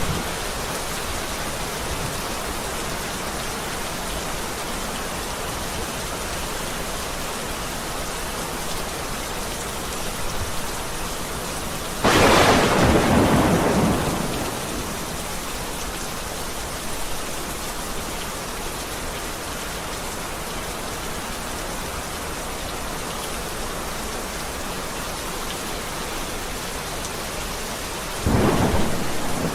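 Heavy rain falling steadily, with a sudden loud thunderclap about twelve seconds in that rumbles away over a couple of seconds, and another clap of thunder starting near the end.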